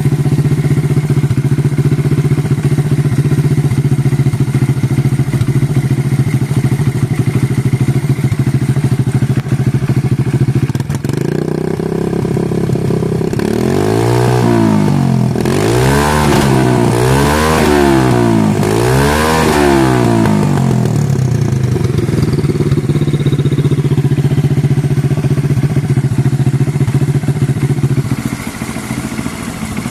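Small 130cc motorcycle engine, fitted with a turbo, running at a steady fast idle, then revved up and down about four times in quick succession around the middle before settling back to idle. Near the end it drops to a quieter, lower idle.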